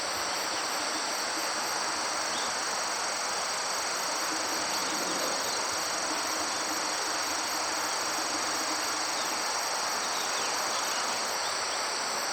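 Chorus of crickets and other singing insects: a steady high-pitched trill with a faster pulsing chirp above it, over a steady rushing background noise.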